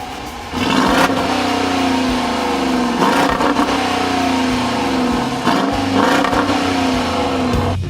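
A vehicle engine at full throttle, its pitch jumping and then sliding at shifts about every two seconds.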